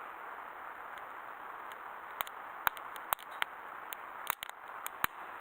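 Fire burning in a small fire grill: a steady hiss with irregular sharp pops and crackles.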